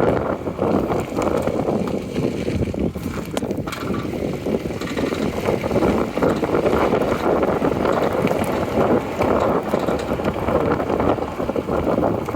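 Geely Coolray on the move, with steady road noise and a scatter of short knocks and rattles from the brake calipers: the caliper knock the owner is recording.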